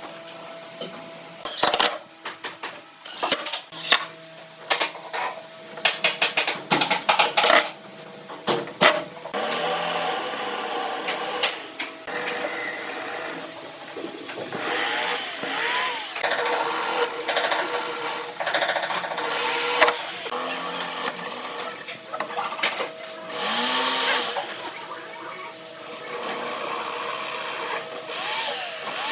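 Woodworking shop sounds: a run of sharp taps and clicks, then a handheld power tool running in long stretches, its pitch rising and falling as it speeds up and slows down.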